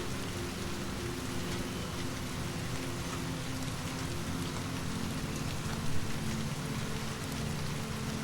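Steady rain falling, an even hiss with scattered faint drop ticks over a low steady hum, and a brief louder thud about six seconds in.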